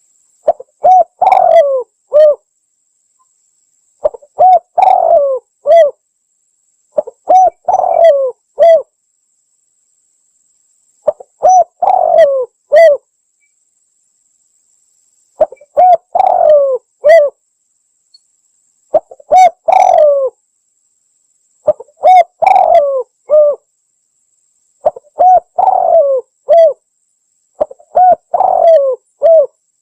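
Spotted dove (tekukur) cooing: nine short phrases of several coos each, repeating about every three seconds with silence between, as in a bird-lure call recording.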